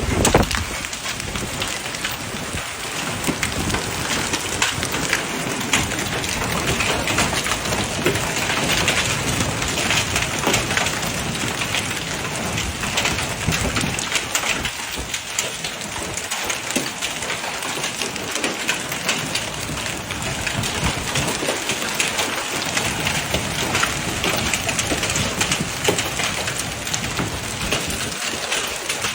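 Heavy rain falling steadily, a dense even downpour with no let-up.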